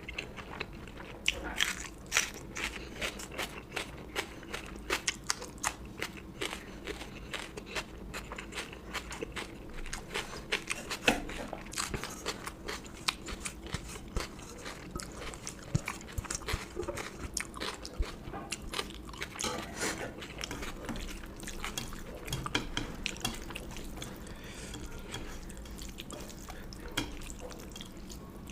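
Close-miked eating of curry and rice: chewing with a dense, irregular run of short wet mouth clicks and smacks, a few of them louder.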